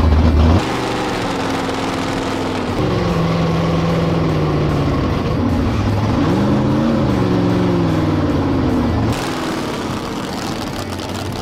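Demolition derby car's engine running through open exhaust stacks. It is revved, its pitch rising and falling back about six to eight seconds in, and settles lower near the end.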